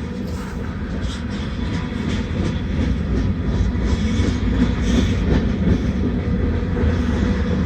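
Freight train rolling slowly past: a steady low rumble of the cars with irregular wheel clicks over the rail joints.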